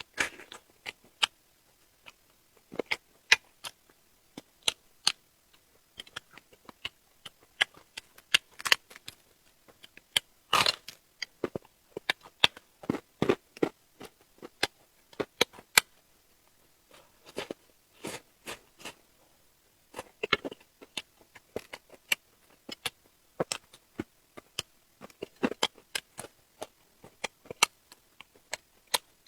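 Close-up eating sounds: chewing and biting with irregular crisp clicks, crackles and mouth smacks, sometimes several a second, with brief pauses between bites.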